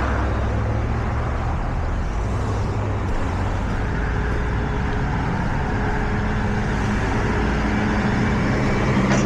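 Tow truck engine running steadily with a low hum, under a constant wash of road or traffic noise. A brief click comes at the very end.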